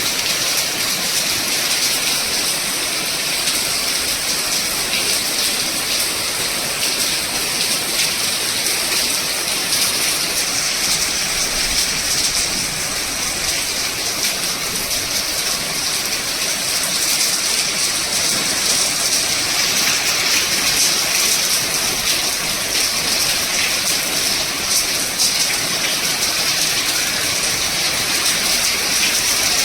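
Heavy monsoon rain falling steadily, a dense even hiss of rain on surfaces.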